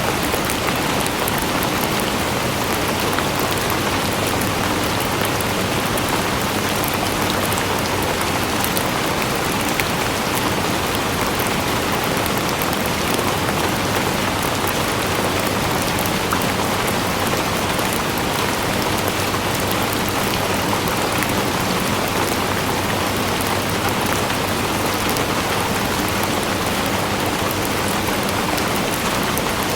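Steady rain falling on a surface, a dense even hiss made of many fine drop patters.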